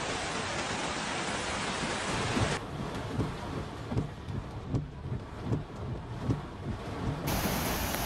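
Storm noise: a steady hiss of heavy rain and rushing floodwater that changes abruptly twice. The middle stretch is duller, with low gusty rumbles coming every half second or so.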